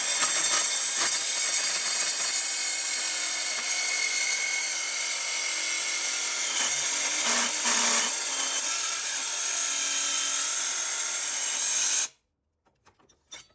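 A power saw cutting through metal stock, a steady loud grinding hiss with a faint whine, which cuts off abruptly near the end.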